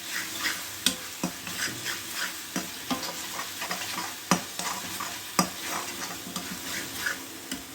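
A thick spice paste frying in oil in a pan while being stirred, with irregular scrapes and knocks of the utensil against the pan over a low sizzle.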